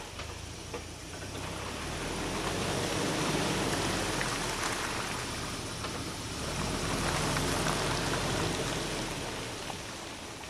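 UAZ Patriot SUV crawling off-road at idle without throttle, its engine running low under a broad rushing noise of tyres and brush, which swells twice.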